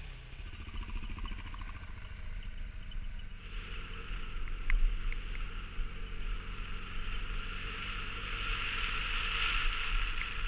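A motorcycle engine running steadily while riding, with a brief knock about halfway through.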